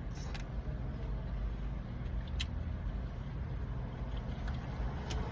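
Low, steady hum of a vehicle engine idling, heard from inside the cab, with a few faint clicks over it.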